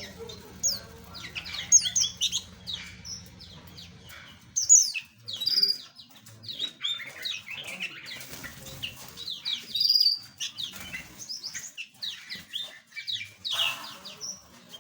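A flock of small aviary birds chirping and chattering together, many short, quick, downward-sliding chirps overlapping. A low hum underneath stops about four seconds in, and a brief rustling burst comes near the end.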